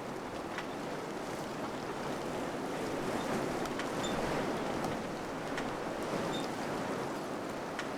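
Wind blowing steadily, swelling and easing slightly, with faint scattered ticks and two brief faint high chirps.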